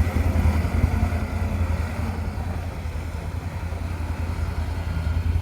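A CFMoto CForce 1000 ATV's V-twin engine running steadily at low revs while the quad floats in deep water, the level easing off slightly about two seconds in.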